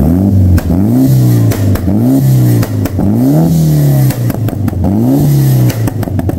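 Turbocharged Mitsubishi 4B11 four-cylinder engine in a Lancer being free-revved in quick throttle blips, about one a second. Sharp pops and cracks come as the revs drop, from a tune set up to make pops.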